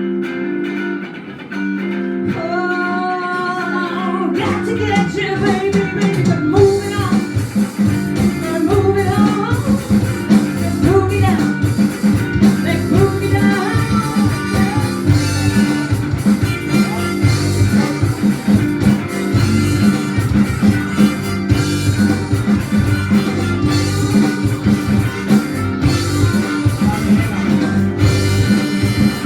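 Live band playing an instrumental stretch in a bluesy rock style. Guitar chords are held alone at first, then bass and drums come in about four seconds in, under a bending lead line.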